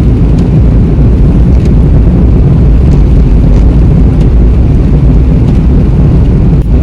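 Car cabin noise while driving: a loud, steady low rumble of road and engine noise.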